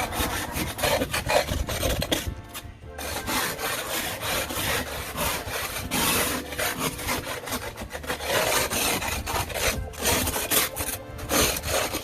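Snow being cleared by hand: repeated scraping strokes of a tool through packed snow, with a short break a little over two seconds in.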